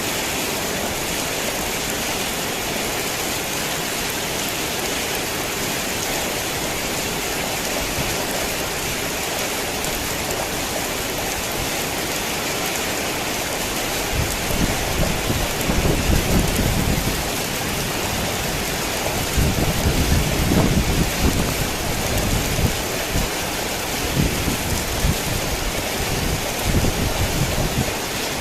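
Heavy rain falling steadily as an even hiss. Deep rumbles of thunder roll in about halfway through, again a few seconds later, and more weakly near the end.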